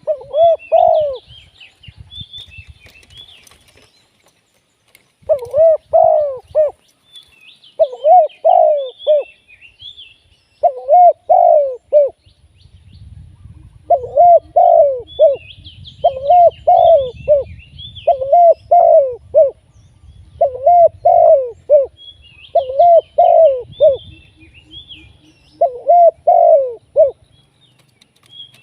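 Spotted dove cooing, a phrase of about a second repeated roughly every two seconds after a pause early on, with a small bird chirping faintly in the background.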